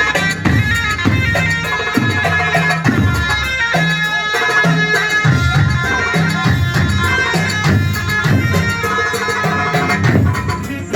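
Arab wedding music: a loud, reedy wind melody in sustained notes over a steady drum beat.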